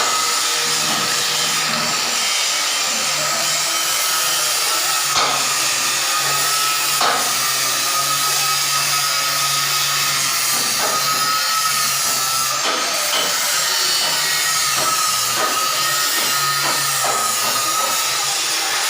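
A power tool running steadily: a loud continuous hiss with a thin wavering whine, and a couple of sharp knocks partway through.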